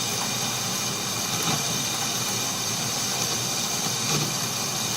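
Atlas metal lathe running steadily while a small boring bar cuts hot-rolled mild steel, an even mechanical noise with a steady high whine.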